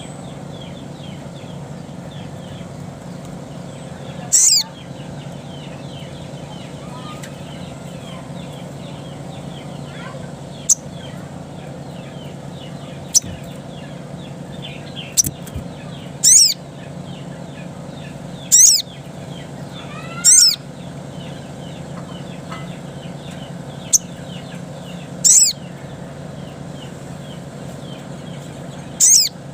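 Sogon (sogok ontong) bird calling in the wild: short, sharp, very high-pitched calls that drop quickly in pitch, repeated every few seconds. Beneath them runs faint continuous chirping and a low steady hum.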